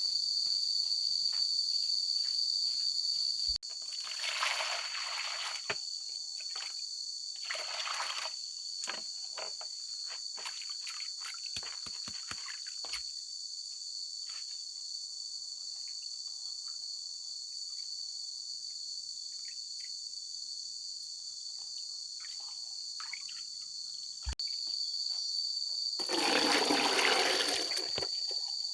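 A steady high-pitched insect chorus of crickets or cicadas, with a few short bursts of splashing or rustling noise and scattered clicks. The loudest burst comes near the end.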